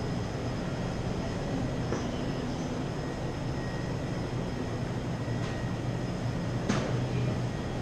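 Steady road and engine noise inside a moving vehicle's cabin, with a single sharp click about seven seconds in.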